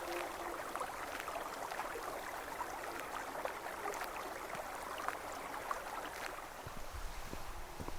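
A forest stream running steadily, with a few soft low thumps near the end.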